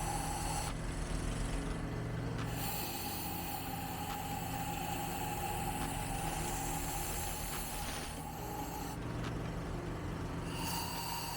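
Compressed-air blow gun hissing into the ports of a Renault 1.2 8v cylinder head over a steady compressor hum, the air cutting off briefly twice. This is a leak test of freshly lapped valves: air is blown behind the valves to check whether any seat leaks.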